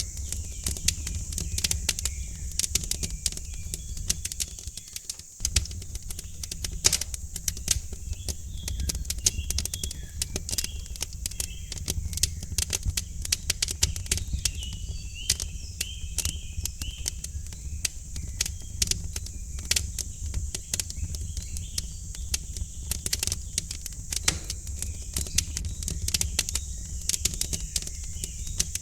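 Wood fire crackling in a fireplace: frequent sharp, irregular pops and snaps over a steady low rumble. Faint bird chirps come through in the middle stretch.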